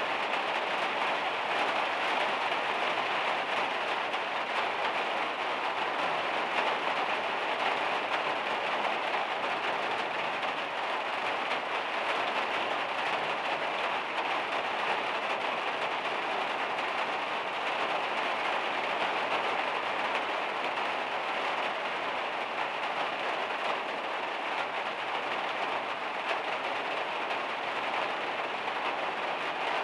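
Heavy rain drumming steadily on the van's metal roof, an even dense patter with no pauses.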